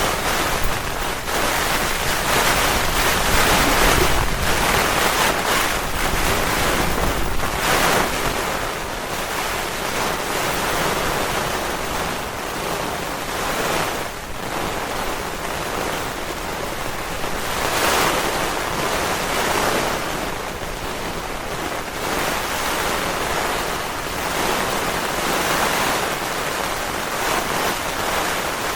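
Heavy rain and gusting wind beating on a tent in a severe thunderstorm, a dense rushing noise that swells and eases with each gust every few seconds.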